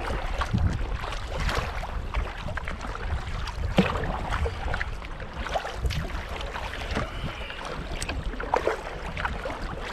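Kayak paddling on open water: irregular splashes and drips from the paddle blades, over a steady low rumble of wind on the microphone.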